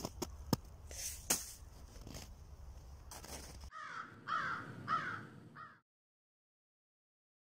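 A low rumble with a few sharp clicks, then, after a cut, four short harsh bird calls in quick succession, each falling in pitch.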